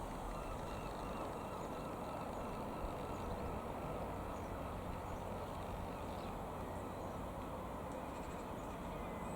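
Cessna 172M Skyhawk's four-cylinder piston engine running steadily: a dense, even drone with a low hum underneath. A few faint high chirps sit above it.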